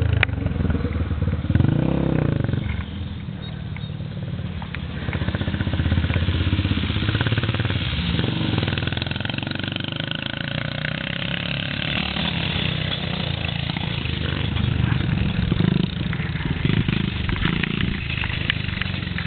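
Small four-stroke single-cylinder Yamaha TT-R dirt bike engine running and being ridden, its pitch rising and falling as the throttle is opened and closed.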